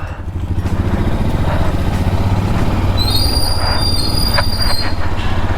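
Royal Enfield Himalayan's single-cylinder engine running with a fast, steady thump. A high-pitched steady squeal joins about three seconds in and lasts about two seconds.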